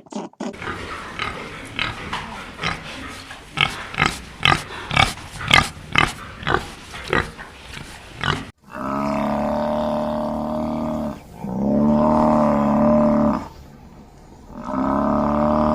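Animal calls: a quick run of short, irregular grunt-like calls for about eight seconds. Then, after a sudden break, come three long, steady, drawn-out calls.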